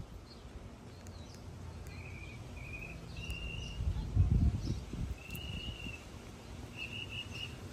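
A bird calling with about five short, high, clear chirps spread out, the last a quick stuttered trill near the end, over a steady low outdoor background. A brief low rumble about four seconds in.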